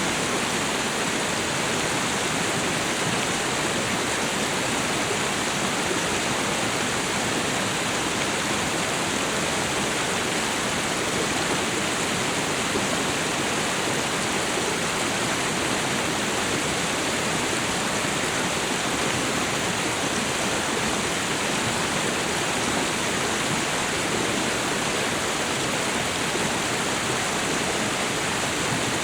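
Waterfall and river water rushing in a steady, unbroken roar of white noise.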